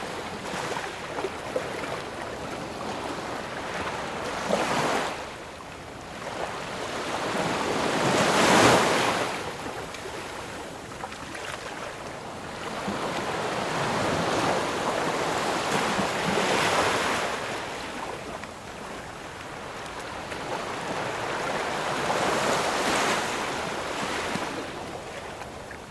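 Ocean surf: waves breaking and washing onto shore every few seconds, each swelling and falling away, with the loudest break about a third of the way in.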